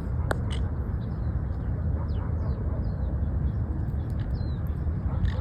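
Small birds chirping, with many short calls and quick pitch glides, over a steady low rumble.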